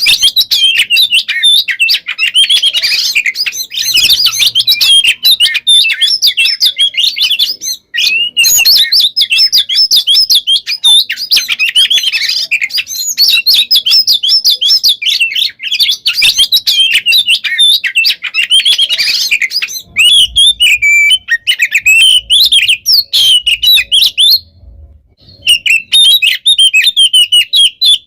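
Oriental magpie-robin (kacer) singing a loud, continuous, rapid song of high chirps, whistles and trills packed tightly together, broken by one short pause near the end.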